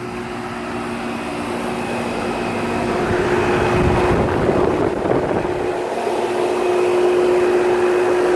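Outdoor air conditioner and heat pump condensing units running: a steady compressor hum with the rush of their fans, growing louder over the first few seconds.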